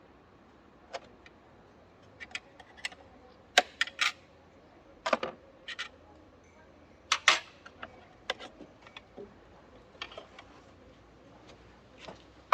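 Scattered sharp clicks and light metallic knocks of tools and car parts being handled during a repair, irregular and separate, the loudest about three and a half and seven seconds in.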